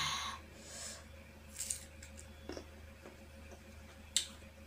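Close-up eating sounds: a person chewing crunchy slices of unripe green mango, with faint moist mouth noises and small crackles, and a sharp click about four seconds in. A short breathy vocal sound trails off at the very start.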